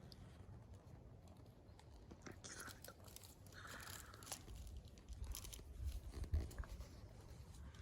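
Faint crunching and rustling with scattered small clicks, and some low thumps in the second half.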